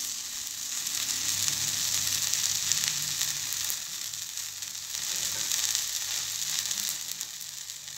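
Thin, lacy jowar (sorghum) dosa sizzling on a hot dosa griddle: a steady frying hiss as it crisps.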